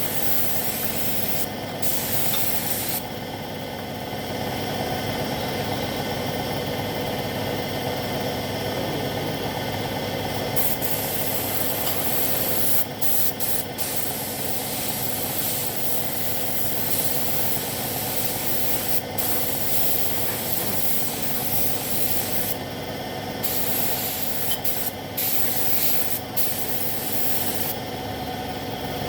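Compressed-air paint spray gun hissing in long bursts as motorcycle body panels are painted, stopping for several seconds early on and briefly a few more times. A steady machine hum runs underneath.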